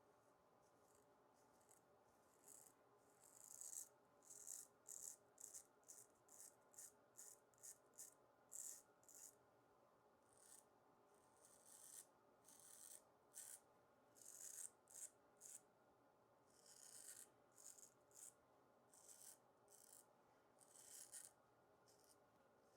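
Iwasaki Tamahagane straight razor scraping through lathered stubble in many short, faint strokes, one or two a second, with brief pauses between runs.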